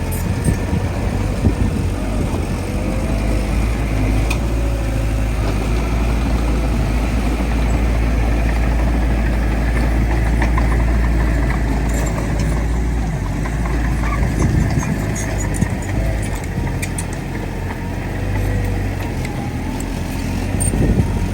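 Heavy diesel engine of earthmoving machinery running steadily with a deep rumble, its pitch wavering slightly as the load changes, and a few faint clanks.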